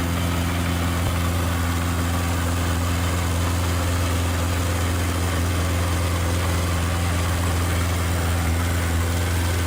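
Diesel engine of heavy earthmoving machinery running steadily at constant speed, a deep, even hum with no revving.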